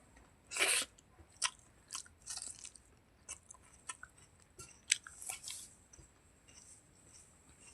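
Close-up eating sounds of chicken skin curry with rice: wet chewing, smacking and biting clicks at irregular intervals, the loudest a short burst about a second in.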